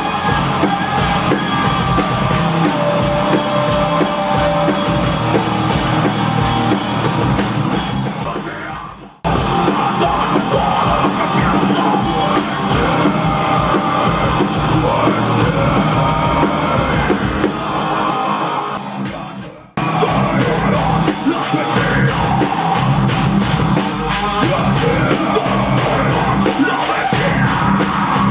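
A live rock band playing loud, with drum kit and guitars. The sound fades down twice, about nine and twenty seconds in, and cuts straight back in at full level.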